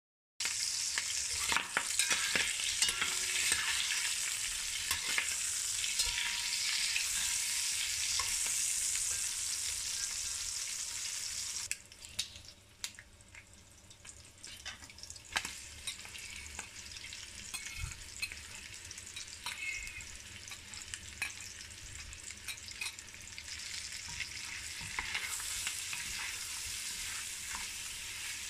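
Smoked pork pieces frying in oil in an enameled cast-iron pot, sizzling, with clicks and scrapes of a metal spoon stirring them. The sizzle drops to a softer level a little under halfway through and builds again near the end, as chopped red onion is stirred in with a wooden spatula.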